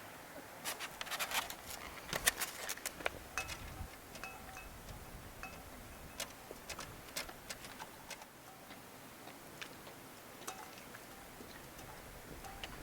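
Irregular light clicks and small metallic clinks of hand-handled camping gear, busiest in the first few seconds, with a few brief faint rings in the middle.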